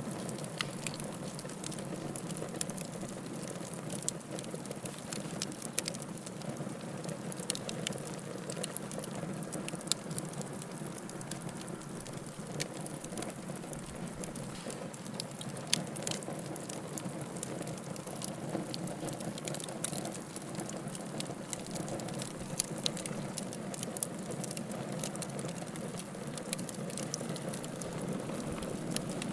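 Wood fire burning in a fireplace: a steady low rush with scattered sharp crackles and pops from the firewood, one louder pop about halfway through.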